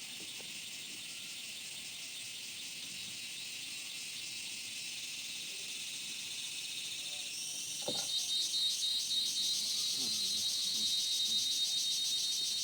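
Chorus of insects shrilling steadily, high in pitch; about seven seconds in it grows louder and takes on a fast, even pulsing.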